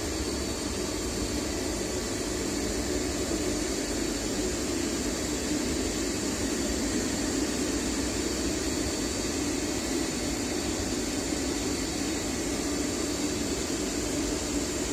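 Weishaupt WG40N forced-draught gas burner firing on a hot-water boiler: a steady rushing noise of fan and flame, unchanging throughout, with a faint high whine above it.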